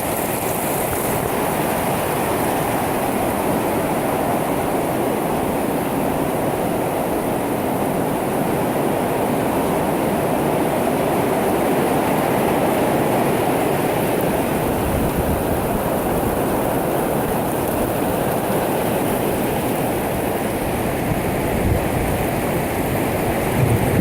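Rain pouring down in a steady, dense hiss, with a few low rumbles near the end.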